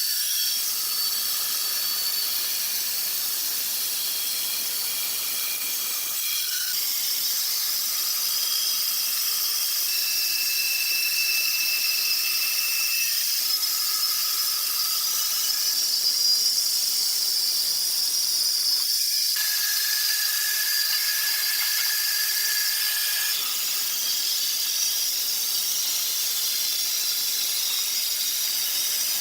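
Sawmill saw cutting wood: a steady high hiss with thin high-pitched whines whose pitch changes abruptly several times.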